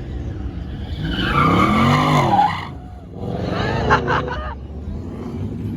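Car engine revved hard at a burnout, the revs climbing and falling twice over tyre noise, with a few sharp cracks about four seconds in.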